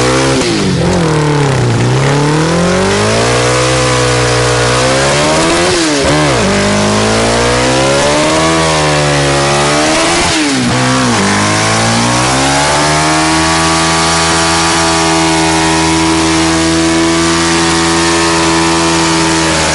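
Motorcycle engine revved hard over and over, its pitch swinging down and up several times, then held steady at high revs for the last several seconds.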